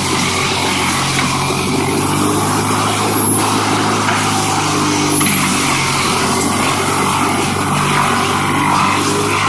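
A heavy machine's engine running steadily under even load, with a thin high whine above it that dips and cuts out for about two seconds in the middle, then comes back.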